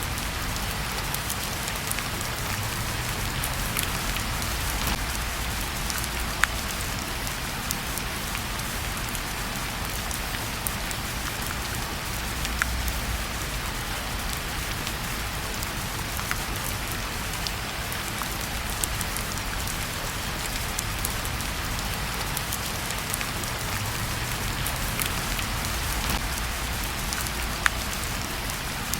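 Steady rain falling, with a low rumble underneath and scattered sharp crackles from a wood fire in a fireplace, two of them standing out about six seconds in and near the end.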